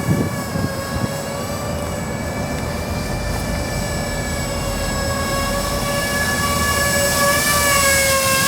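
Walkera Avatar twin-rotor electric RC aircraft in flight: a steady, slightly wavering whine from its electric motors and rotors, slowly growing louder toward the end. Strong wind rumbles and buffets on the microphone underneath, with gusts near the start.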